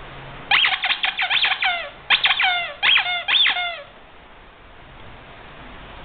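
Squeaky rubber toy squeezed over and over: a quick run of short squeaks, a brief pause, then more squeaks, the last two longer, stopping about four seconds in, over a steady hiss.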